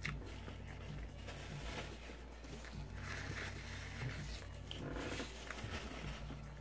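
A man chewing a mouthful of burger close to the microphone, with soft irregular mouth noises. A paper napkin rustles against his mouth a few seconds in.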